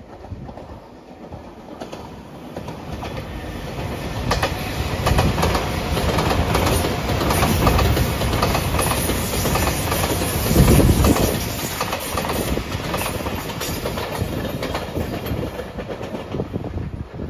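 An 8-car JR Shikoku 8000-series electric limited express train passing at speed: wheel-on-rail noise and a rapid clatter over the rail joints. It builds as the train approaches, is loudest about five to eleven seconds in, then fades as the train pulls away.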